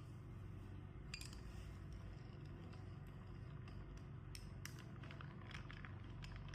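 Faint scattered clicks and light taps over a low steady hum.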